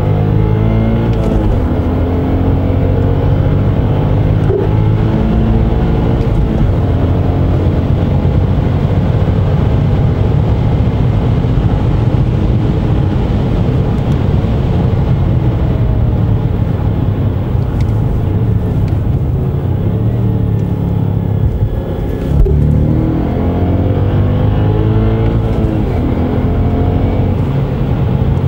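Audi S5's 4.2-litre V8 engine pulling hard under full acceleration, heard from inside the cabin, its note climbing with revs over road and wind noise. About three-quarters of the way through there is a brief break in the engine note, after which it climbs again.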